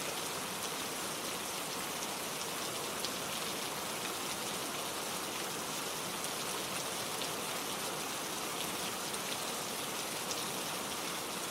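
Steady gentle rain falling, with faint scattered drop ticks over an even hiss and no thunder.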